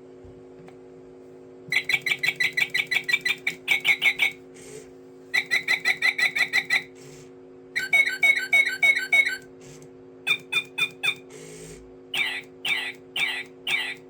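Bird-like chirping: five phrases of quick, evenly repeated whistled notes and trills, each lasting one to three seconds with short pauses between, over a steady low hum.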